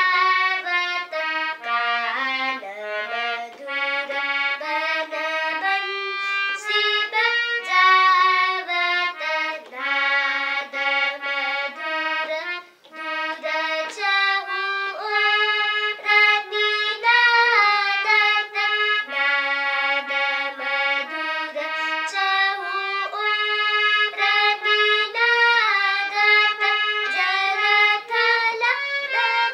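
A free-reed instrument plays a melody in stepped, held notes, with no bass or percussion.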